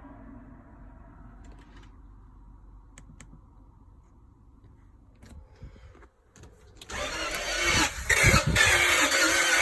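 Starter cranking a BMW M62 V8 in a Range Rover, which turns over in a no-start condition even though it has spark and fuel. It starts suddenly about seven seconds in, after a few faint clicks.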